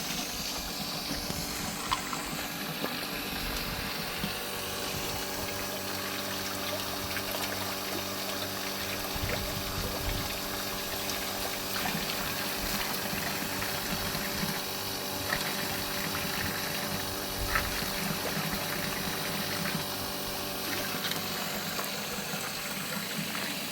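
Steady running water over a constant low hum, with a few short knocks, the loudest about two seconds in and near the end.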